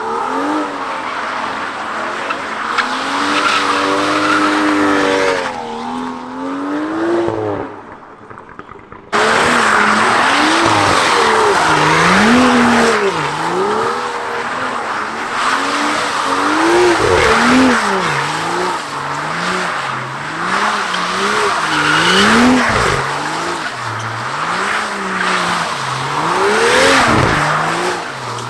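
A car skidding with its tyres screeching while the engine revs up and down about once a second. Near the middle there is a short quieter spell, after which the sound comes back abruptly louder.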